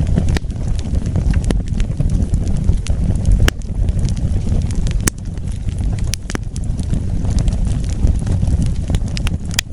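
Wood fire burning: a steady low rumble with sharp crackles and pops every second or so, the brightest pop near the end.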